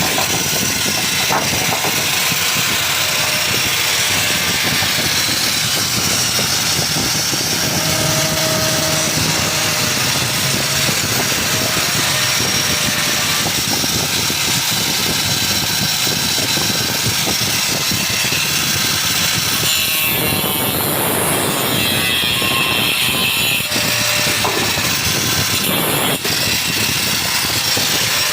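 Angle grinder cutting through wood: a loud, steady cutting noise whose tone shifts for a few seconds about twenty seconds in.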